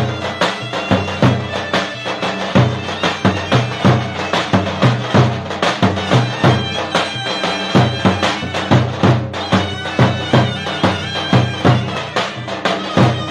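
Turkish folk dance music: a shrill reed wind instrument playing a melody over a deep drum beating about twice a second.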